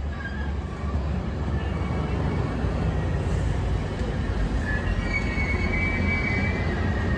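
VRE commuter train of stainless-steel Gallery IV bilevel cars rolling past on the rails as it arrives, with a steady wheel rumble. A faint high squeal comes in about five seconds in.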